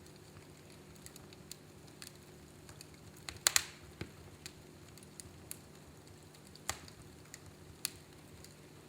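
Fireplace fire crackling, with scattered sharp pops; the loudest, a quick double pop, comes about three and a half seconds in. A faint steady hum runs underneath.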